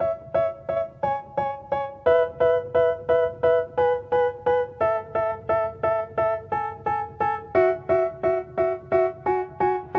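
Background music: a piano-like keyboard striking repeated chords, about three a second, moving to a new chord every second or two.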